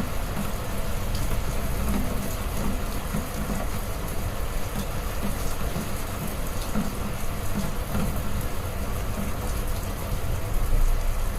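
Heavy rain falling steadily, with a deep low rumble underneath and a slight swell near the end.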